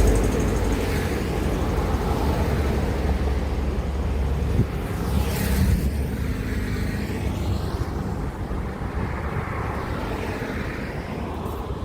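Heavy road traffic passing close by: a deep diesel rumble of a large vehicle going past at the start and fading away, then another vehicle passing about five seconds in with a rising and falling tyre hiss.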